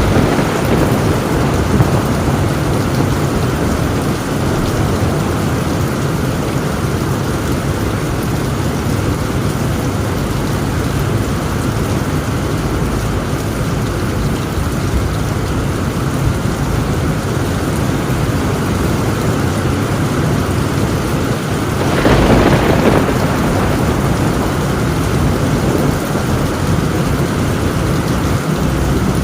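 Heavy rain pounding steadily on a tin roof during a thunderstorm, with thunder underneath. About three quarters of the way through there is a brief louder crash.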